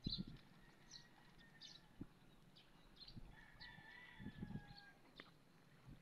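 Faint bird calls: short high chirps repeating throughout, and one long drawn-out call about three seconds in. A few low thumps come through as well.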